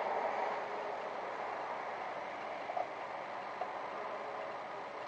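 Steady noise of a car on the move, road and engine noise with no distinct pitch, easing down slightly. Two faint ticks about three seconds in.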